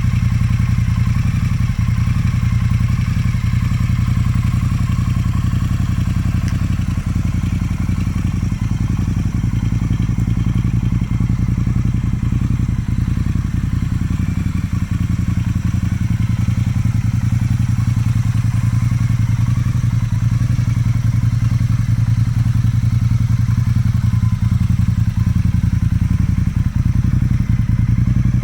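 Motorcycle engine running steadily at an even speed, without revving.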